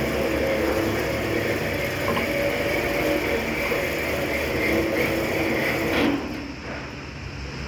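A motor running steadily, dropping away suddenly about six seconds in.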